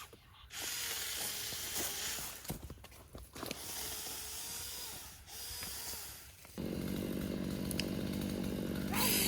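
A small petrol engine starts up abruptly about two-thirds of the way in and runs at a steady drone. Before that there is only uneven outdoor noise.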